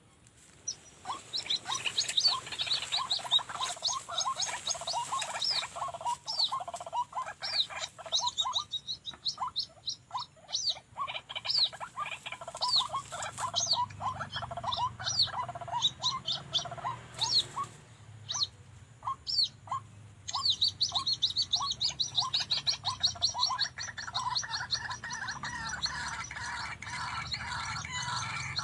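White-breasted waterhens calling: long runs of rapidly repeated 'kruak' notes, starting about a second in and growing denser and more continuous after about twenty seconds.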